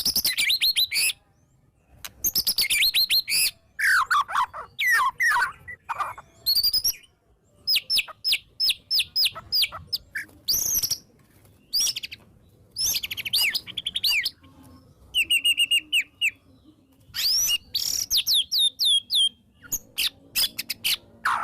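White-rumped shama (murai batu) singing loudly in varied phrases: quick runs of falling whistles, sharp repeated notes and a few buzzy held notes, each phrase separated by a short pause.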